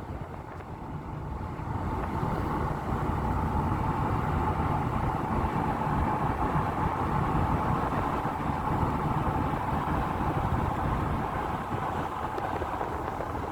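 Car driving: steady engine and road noise with a low rumble, a little louder from about two seconds in.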